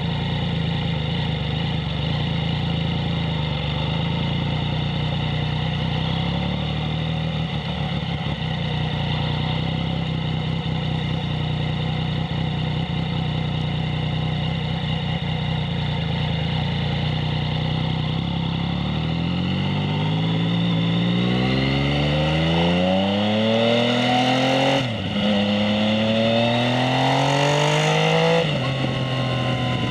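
Yamaha MT-09's inline three-cylinder engine through a Two Brothers S1R full exhaust, running at a steady engine speed, then revving up as the bike accelerates. The pitch climbs, drops sharply at an upshift about two-thirds of the way in, climbs again, and drops at a second upshift near the end.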